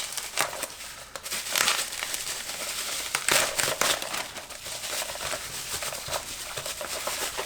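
Packaging crinkling and rustling as it is handled and unwrapped, in irregular bursts, loudest about a second and a half in and again around three to four seconds in.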